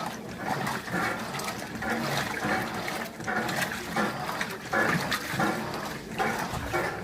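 Electrolux Turbo Economia 15 kg top-loading washing machine agitating a load of towels in water: irregular sloshing surges, about one or two a second.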